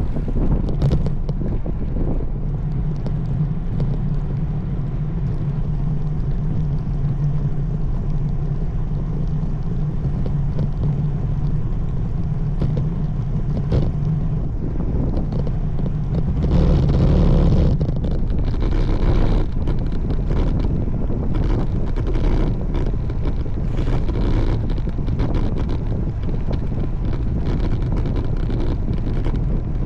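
Wind rushing and buffeting over the microphone of a moving road bike, with a steady low rumble underneath. The wind surges louder twice, about halfway through.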